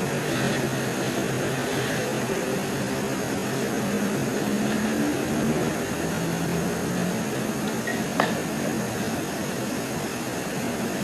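Steady hiss of night-time forest ambience with a faint low hum that shifts in pitch now and then, and a single sharp click about eight seconds in.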